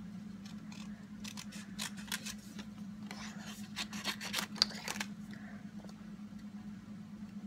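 Scissors snipping through paper in a quick run of short cuts, busiest from about one to five seconds in, over a steady low hum.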